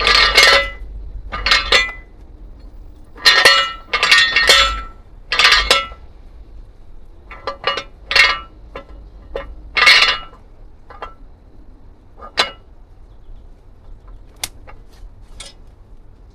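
Hard metal objects clanking and clinking together: about fifteen separate knocks, each with a short metallic ring, close together through the first ten seconds and sparser after.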